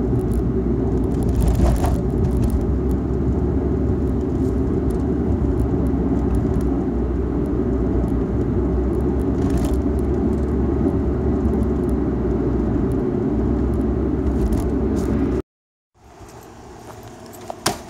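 Car cabin noise while driving: a steady low road and engine rumble, which cuts off abruptly about fifteen seconds in.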